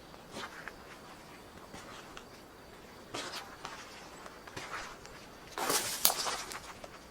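Footsteps crunching through forest-floor litter: a few scattered steps, the loudest pair with a sharp snap about six seconds in.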